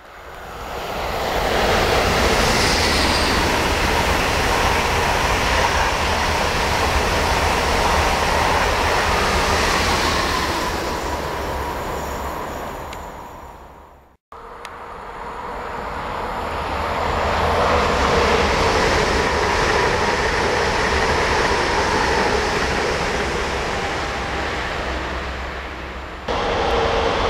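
Trains passing on a railway line, each swelling to a steady loud rumble with a high whine over it and then fading away. The first pass cuts off abruptly about halfway through. A second train then rises and fades, and a fresh train sound cuts in sharply near the end.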